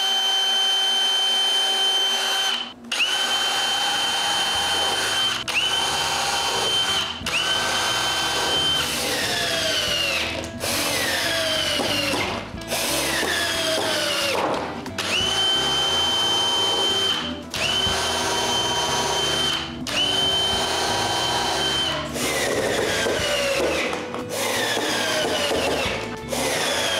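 A power drill driving screws into plywood in a dozen or so short runs, each a couple of seconds long with brief stops between. In the later runs the motor's pitch sinks through each run as the screw draws tight.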